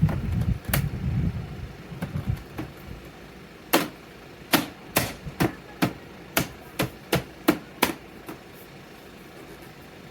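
Low rubbing and handling noise, then a run of about nine sharp clicks or taps, roughly two a second, that stop near the end.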